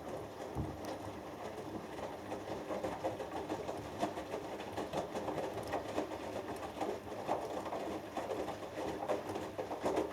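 Hoover Dynamic Next washing machine in the main wash of a cotton cycle: the drum turns and wet laundry tumbles and sloshes in the water, an uneven churning with no steady rhythm.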